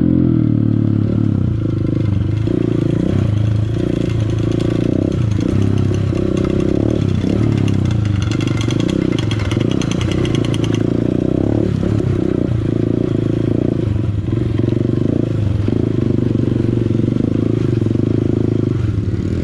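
Honda CRF150L dirt bike's single-cylinder four-stroke engine running on a trail ride, its pitch rising and falling with the throttle and gear changes. It grows harsher and more rattly for a few seconds around the middle, then settles into a steadier run near the end.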